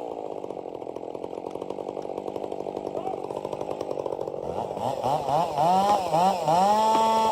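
Two gasoline chainsaws cutting together into a large tree trunk, their engine notes merging. They run steadily at first; from about halfway in, the pitch rises and falls again and again as the throttles are worked, then holds at high revs near the end.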